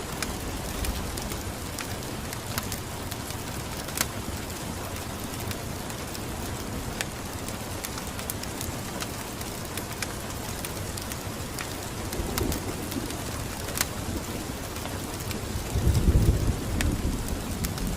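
Steady rain falling, with scattered sharp drop ticks and low rumbling swells about twelve and sixteen seconds in.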